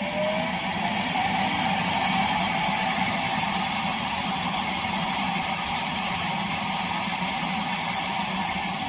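The Roomba Combo i5+ self-emptying base's suction motor running loud and steady, a jet-like rush with a thin high whine. It finishes spinning up just after the start and begins to wind down at the very end. The owner takes the dump to be blocked, since nothing reaches the bag.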